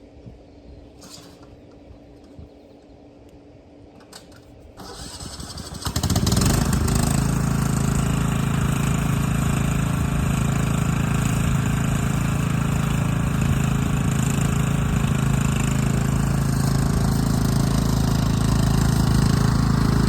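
An engine starts up about five seconds in, then runs steadily at a constant speed.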